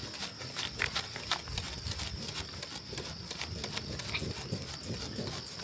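Irregular rustling and crackling clicks over a steady, high insect drone.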